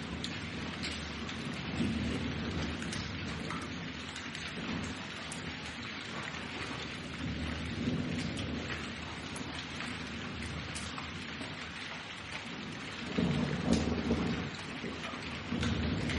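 Steady rain falling with rolling thunder; a louder swell of thunder rumbles about thirteen seconds in.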